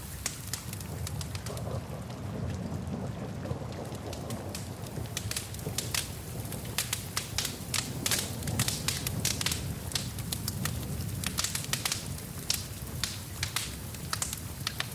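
Wood fire crackling, with many sharp pops that grow more frequent about a third of the way in, over a steady rain hiss and low rumble.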